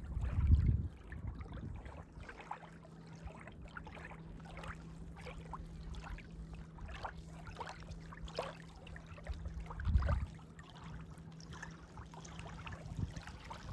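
Running water of a river or stream with scattered small ticks. Two low rumbles swell, about half a second in and again about ten seconds in.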